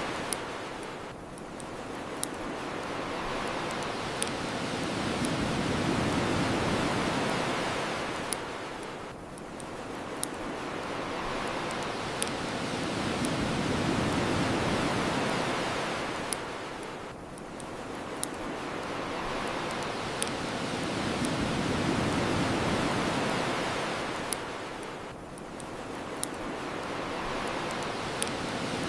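Ocean waves washing on a shore, swelling and falling back about every eight seconds, with occasional sharp pops from a crackling wood bonfire.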